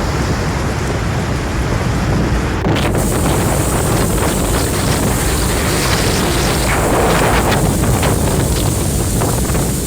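Strong storm wind buffeting the microphone, a loud, steady rushing noise with heavy low rumble. About three seconds in it turns brighter and hissier, with scattered crackles through the middle.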